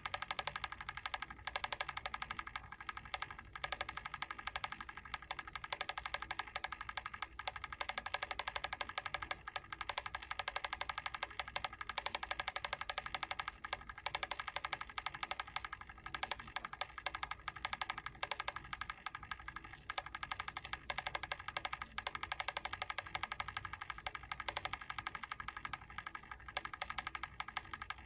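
Mechanical timer switch ticking fast and evenly without a break, its clockwork mechanism running down the set time.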